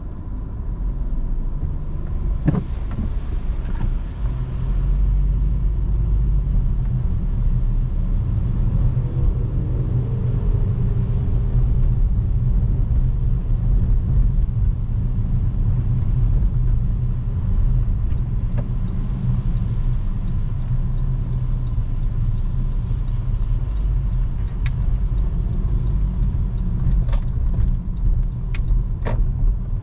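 Steady low road and engine rumble of a car being driven, heard from inside, with a few short sharp clicks about two seconds in and again near the end.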